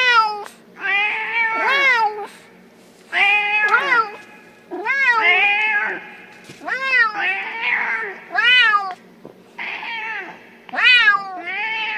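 Domestic cat meowing over and over, a string of about a dozen meows that each rise and then fall in pitch, coming in pairs and short clusters with brief pauses between them.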